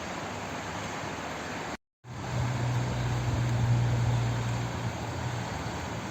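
Steady rushing of flowing water, an even hiss. It cuts out to silence for a moment about two seconds in, then comes back with a low rumble under it for a few seconds.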